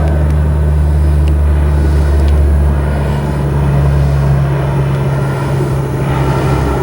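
A steady, loud, low engine drone with a deep even hum.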